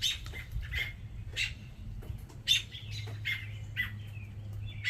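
American robins calling: a run of short, sharp calls repeated about once or twice a second.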